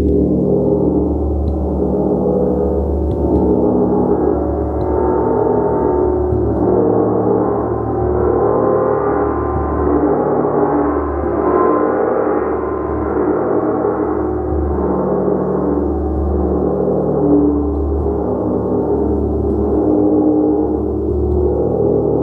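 Gong played continuously, giving a dense, sustained wash of ringing tones with a low hum that swells and pulses slowly.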